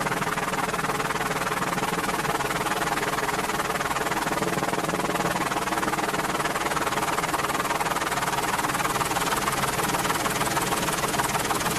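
Merlin helicopter running steadily: an even drone of rotor and turbine noise with several fixed tones, the level unchanging throughout.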